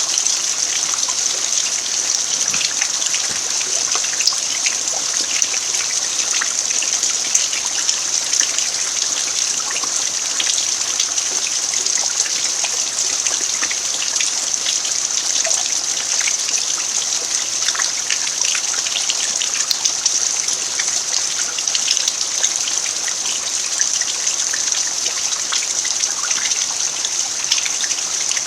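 Steady rain falling on a dirt farmyard: a dense, even hiss full of small ticks from individual drops.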